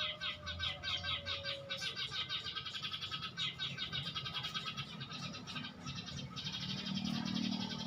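Small songbird calling in a fast, steady series of short high chirps, several a second, on a bird-luring trapping ground. A low hum swells near the end.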